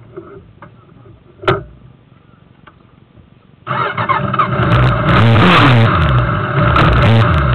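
Suzuki GSX750F motorcycle's inline-four engine catching suddenly just past halfway and running, its note rising and falling. Before it starts there is a single sharp click about one and a half seconds in.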